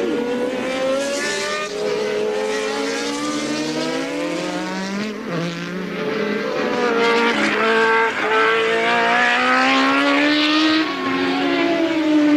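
Early-1980s Formula 1 cars' engines at racing speed, several heard at once, their pitch climbing and stepping through gear changes about two-thirds of the way in and dropping shortly before the end.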